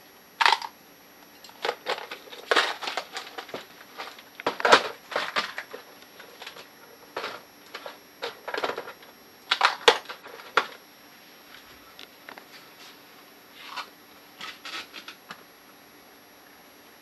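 Irregular clicks, scrapes and clinks of hand tools and small parts being handled while a TUSA scuba regulator first stage is taken apart, in uneven bursts with short pauses.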